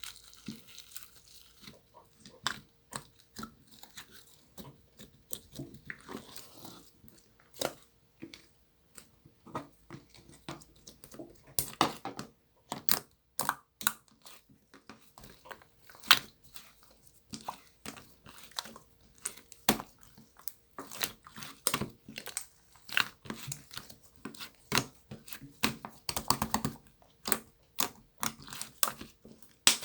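Slime being squished and poked by hand, making irregular crisp clicks and crackles that come thicker and louder from about a third of the way in.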